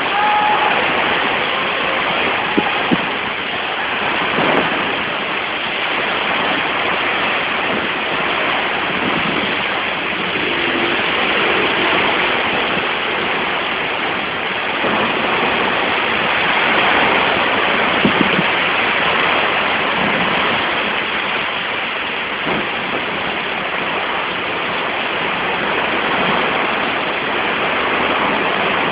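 Heavy rain driven by strong wind: a loud, steady, dense rush that swells and eases a little.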